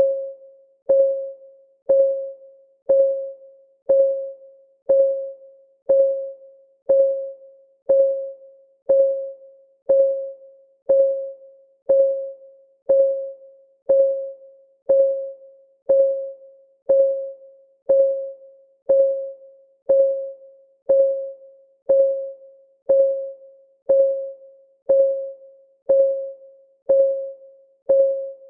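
Countdown timer's clock-ticking sound effect: a short, pitched tick once every second, each fading quickly, perfectly even and unchanging.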